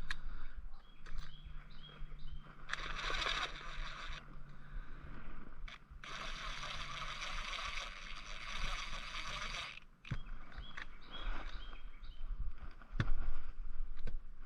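Metal hand tools clicking and scraping on a homemade bolt-and-socket bearing press as it is worked to push needle bearings into a motorcycle shock arm, with two longer stretches of hissing, grinding noise.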